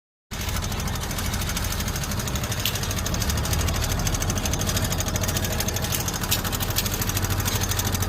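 Suzuki Access 125 scooter's single-cylinder four-stroke engine idling steadily with a fast, even beat, running with a newly replaced timing chain, rockers and camshaft.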